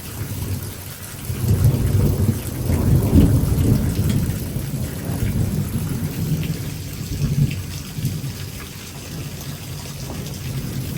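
A thunder rumble over steady heavy rain: it builds about a second and a half in, is loudest for a couple of seconds, then dies away over several seconds.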